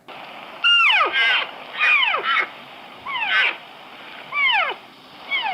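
Bat calls played as the animal's sound: about five cries roughly a second apart, each sliding steeply down in pitch, over a steady background hiss from the recording.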